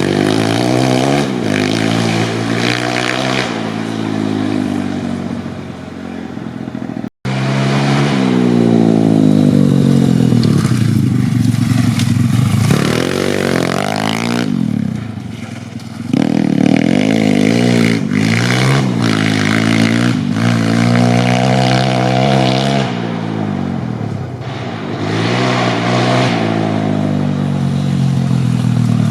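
YCF 150 Classic pit bike's 150cc four-stroke single-cylinder engine being ridden hard: repeated wide-open accelerations, the pitch climbing and then dropping back as the throttle is eased or a gear is changed. There is a sudden brief cut about seven seconds in.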